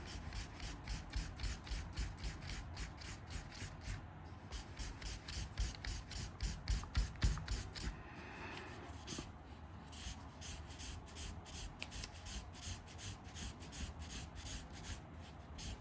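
Alcohol marker tip rubbing across paper in quick back-and-forth shading strokes, about four a second, with a short break about four seconds in and softer strokes a little after eight seconds.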